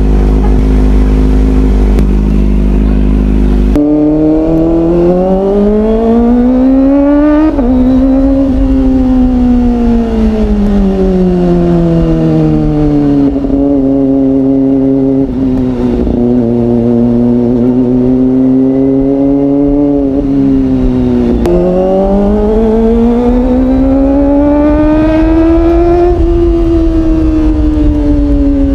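Kawasaki ZX25R's 250 cc inline-four through an aftermarket Orion exhaust, ridden on the road: engine pitch steady at first, then climbing under acceleration about four seconds in with a sharp drop at a gear change, easing off to a steady cruise, and rising again past twenty seconds before falling back near the end.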